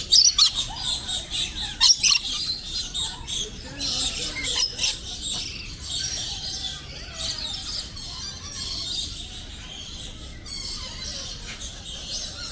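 Parrots squawking and chirping in an aviary, with several loud sharp squawks in the first two seconds and a busy chorus of chirps after.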